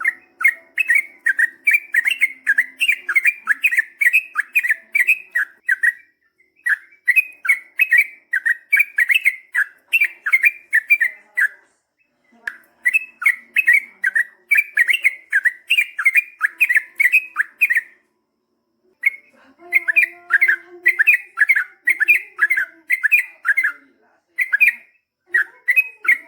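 Yellow-vented bulbul (trucukan) singing, in long runs of rapid, repeated chattering notes. The runs last about five to six seconds each, with brief pauses between them.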